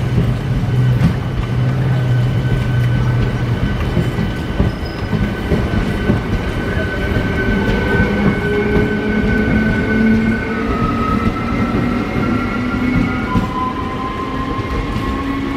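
Train running through on the rails, a loud steady rumble of wheels and cars, with a low hum at first and a whine that slides down in pitch over the second half.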